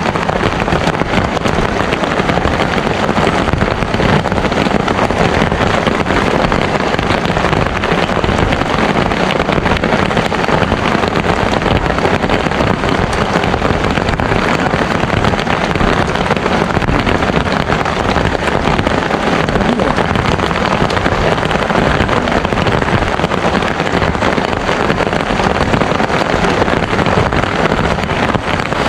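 Heavy rain pouring down in a tropical rainstorm, a loud, steady, unbroken hiss.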